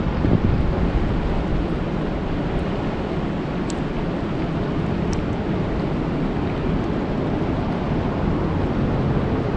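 Steady rain falling on a lake: a dense, even hiss with a low rumble underneath and a few faint, sharp ticks.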